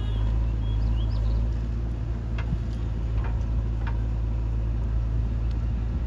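Diesel engine of a JCB 3DX backhoe loader running steadily with a deep drone, with a few light knocks around the middle.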